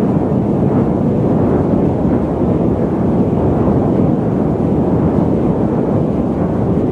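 Loud, steady static noise, deep rather than hissy, running without a break or change.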